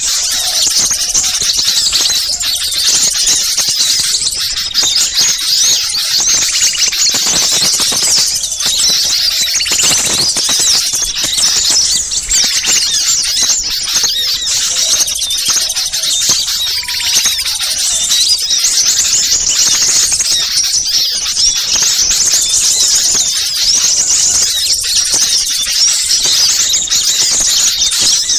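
A dense chorus of many small birds calling at once, high rapid chirps and trills overlapping without a break, as in a noisy, agitated flock of small birds used as a lure recording.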